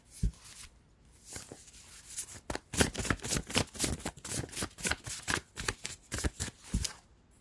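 A deck of tarot cards being shuffled by hand: a few scattered card flicks, then a fast, dense run of card clicks from a few seconds in until near the end.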